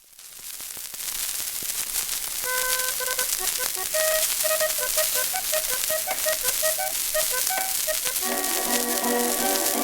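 Start of an early shellac 78 rpm record: surface hiss and crackle fade in, then a thin melody of short notes begins about two and a half seconds in and is joined by fuller accompaniment near the end.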